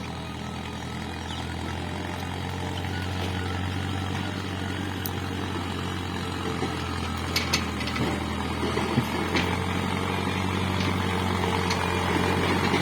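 Diesel engine of a Hydra crane-type work machine running steadily, its loudness creeping up slightly. A few sharp metallic clicks or knocks come about halfway through.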